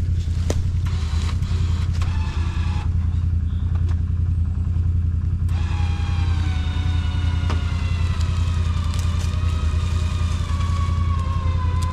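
ATV engine running steadily while an electric winch motor whines under load, briefly early on and again from about halfway in, its pitch slowly sinking as it pulls.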